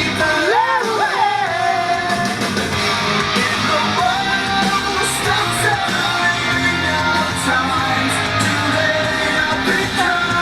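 Rock music: a band with guitar and a sung melody.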